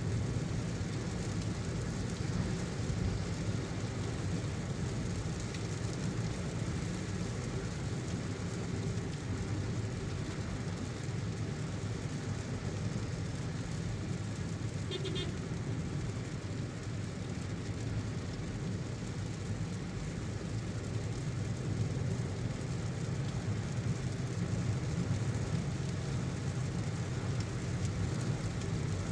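Car driving in heavy rain: a steady low road and engine rumble under the even hiss of rain.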